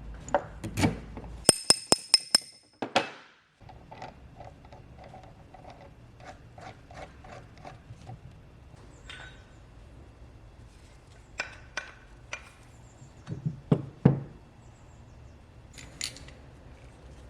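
Metal parts clinking and knocking against each other. About five quick, ringing clinks come near the start, then light ticks, and a cluster of heavier knocks later on.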